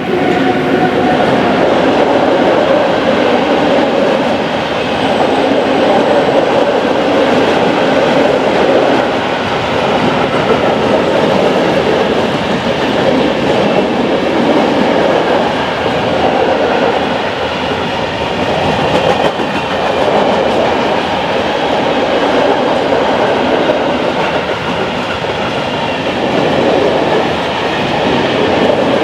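Freight train of open coal wagons hauled by an ET22 electric locomotive passing close by: a loud, steady rumble of steel wheels on rail with clickety-clack over the joints, rising abruptly right at the start.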